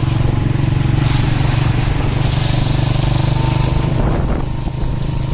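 Motorcycle engine running steadily while riding, under a continuous rushing hiss that grows brighter about a second in.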